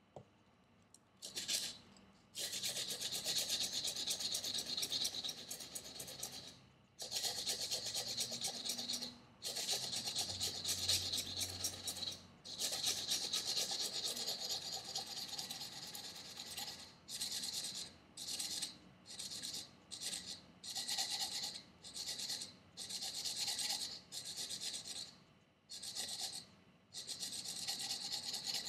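Knife blade being stroked edge-trailing across sandpaper laid over a leather strop, to reprofile a convex edge: a dry rasping scrape. Long strokes of a few seconds each give way in the second half to quicker strokes of about one a second.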